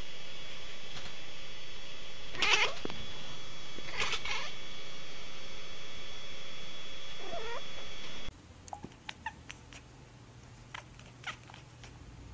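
A cat meowing loudly three times, the last call falling in pitch. About eight seconds in it cuts to a much quieter scene with a few faint clicks.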